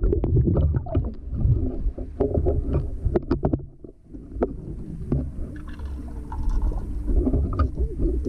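Pool water sloshing and splashing close to the microphone, with irregular sharp splashes over a low rumble that dips about four seconds in.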